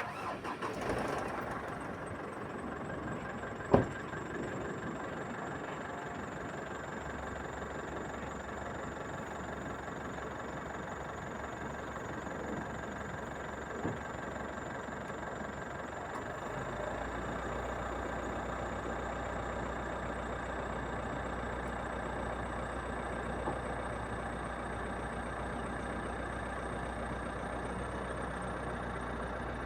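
Truck engine running steadily, its low hum stepping up a little twice. A single sharp click sounds about four seconds in.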